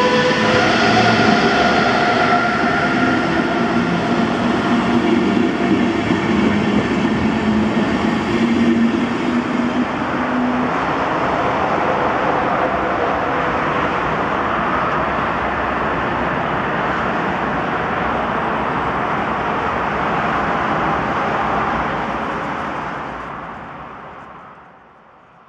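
DB class 101 electric locomotive and its passenger coaches running past: a loud, steady rush of wheels on rail with several held whining tones for the first ten seconds, then a smoother even rushing that fades out near the end.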